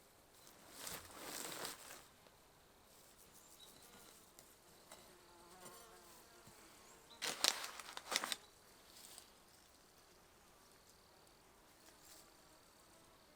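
Faint buzzing of a flying insect, with two brief louder noisy bursts, about a second in and again around seven seconds in.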